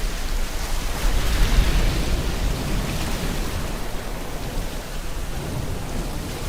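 Steady rain hissing over the low rumble and wash of ocean surf, with a wave swelling about a second in.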